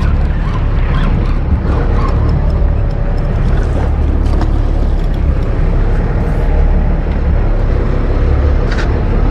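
Steady low rumble of a sportfishing boat's engine running, with faint scattered clicks.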